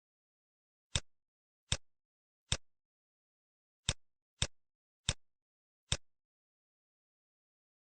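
Computer mouse clicking, seven sharp single clicks at an uneven pace with silence between.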